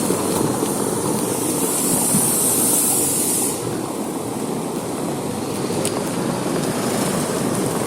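Steady rushing street noise heard while riding a bicycle, with no distinct events. A high hiss drops away about three and a half seconds in.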